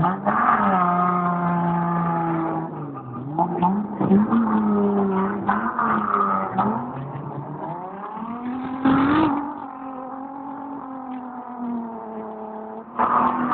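Demolition derby cars' engines revving hard, pitch rising and falling as they rev and ease off, with a few short knocks and one loud, short burst of noise about nine seconds in.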